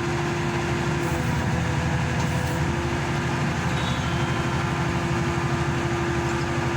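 Diesel engine of a hydraulic static pile driver running steadily, with a held steady tone over its rapid low pulsing.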